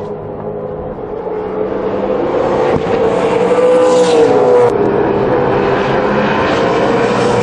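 V8 Supercar race engines running at racing speed, growing louder over the first few seconds. About four seconds in the engine pitch swells and then eases off, and the sound changes abruptly just under a second later.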